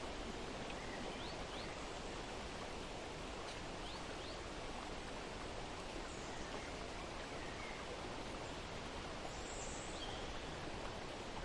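Steady outdoor ambience of running water, with a few faint, short bird chirps now and then.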